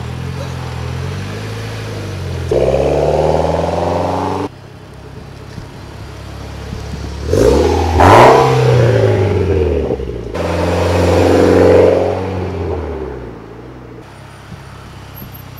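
Mitsubishi Lancer Evolution X's turbocharged 2.0-litre four-cylinder engine running, heard in several short clips joined with abrupt cuts. About seven and a half seconds in, a rev rises and falls, the loudest moment.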